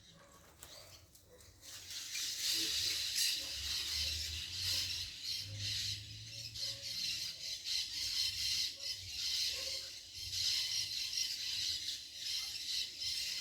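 Birds calling: a dense, high-pitched chattering that swells in about two seconds in and keeps going, over a low rumble.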